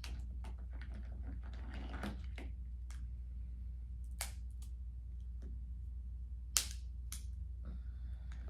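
Crab leg shells being cracked and picked apart, a scatter of small clicks with a few sharp cracks in the second half, over a steady low hum.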